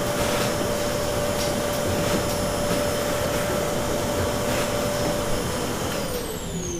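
An electric motor running steadily with a rushing noise and a whine, then switched off about five seconds in, its pitch sliding down as it spins down.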